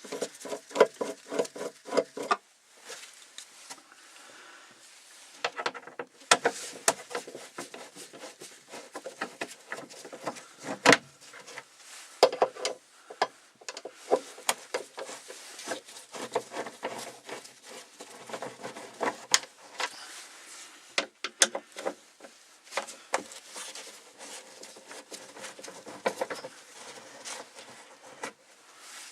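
Hand work on a car's plastic interior trim: irregular clicks, taps and scraping as Phillips screws are undone and the panels are handled. A pulsing, squeaky tone sounds during the first couple of seconds.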